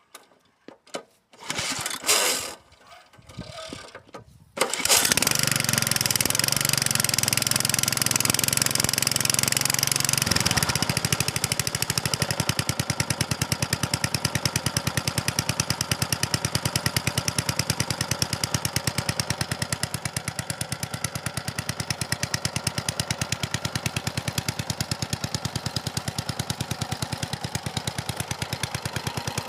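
Honda HR215 petrol lawnmower engine being cold-started: a few short sounds about two seconds in, then the engine catches about four and a half seconds in and runs. About ten seconds in it settles to a slightly quieter, evenly pulsing run.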